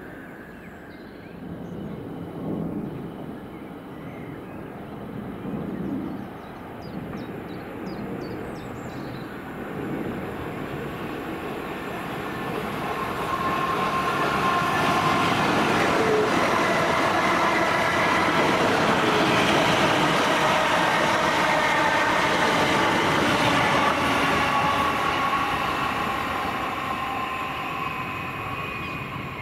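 A train passing through the station at speed: the rumble builds for about a dozen seconds, then a loud stretch of wheel-on-rail rush with steady whining tones, easing off near the end.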